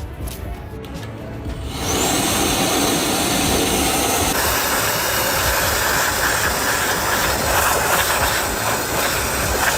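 Faint music, then about two seconds in a loud, steady rushing noise sets in and holds.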